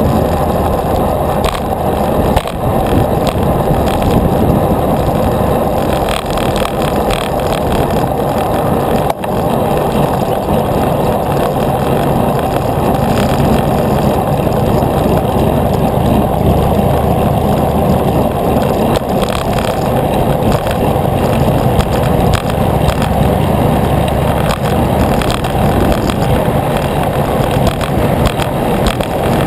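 Steady rumble of wind on the microphone and tyre noise from a bicycle rolling along the road, with a brief dip about nine seconds in.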